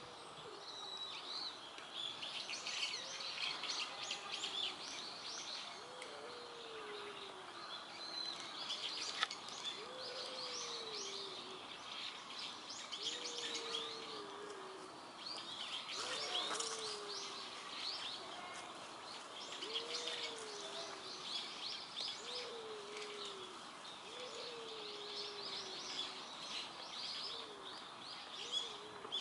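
Birds chirping and twittering in a park, many quick high calls overlapping, with a lower, softer call repeating every few seconds.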